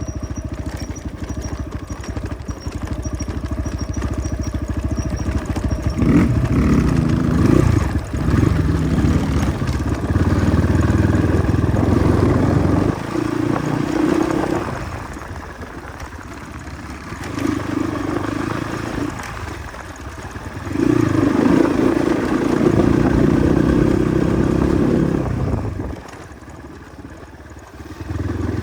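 Motorcycle engine running as it is ridden, with the throttle opening and closing: louder revving stretches alternate with eased-off dips, and near the end it falls low for a moment before picking up again.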